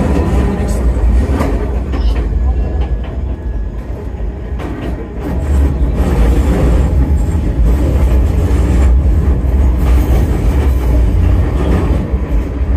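Enoden electric train running on its rails, heard from inside the front car: a steady low rumble of wheels and motors with scattered sharp clicks of the wheels over the track, easing a little about four seconds in and then rising again.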